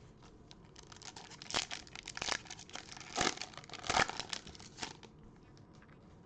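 Foil trading-card pack wrapper crinkling and tearing as it is ripped open by hand, in a few crackly bursts over several seconds.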